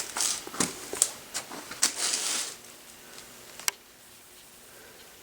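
A scatter of sharp clicks and short rustles, then one sharp click a little over halfway through, followed by faint room tone.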